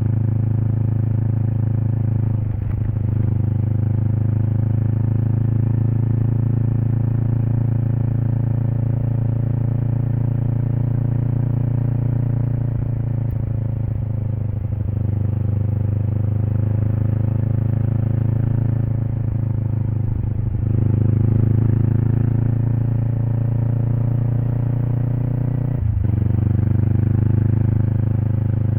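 Kawasaki Eliminator SE's parallel-twin engine running under way through a BEAMS aftermarket header pipe and muffler, heard from the exhaust side. The note is steady, with four brief dips where it breaks and picks up again.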